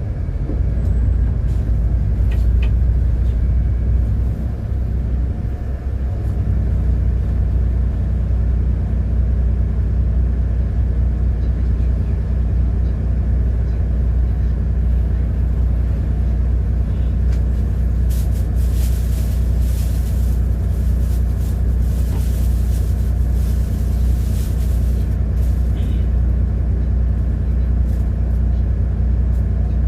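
City bus engine running steadily as the bus drives on, a low drone that settles after a brief change about five seconds in. A run of short hisses comes about two-thirds of the way through.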